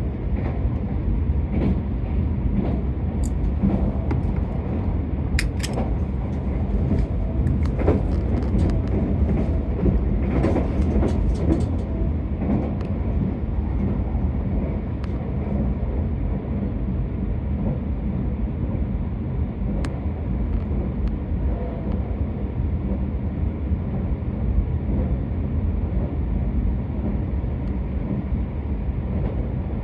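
Running noise of a Keisei Main Line express train heard inside the passenger car at speed: a steady low rumble of wheels on rail, with scattered sharp clicks in the first half.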